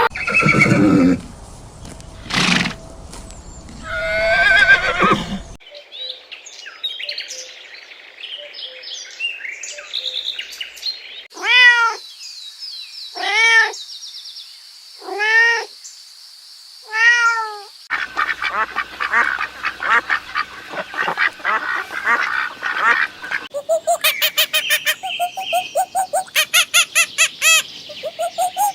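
A string of different animal and bird calls, one clip after another. In the middle come four separate arched calls about two seconds apart, then a stretch of rapid, chattering calls.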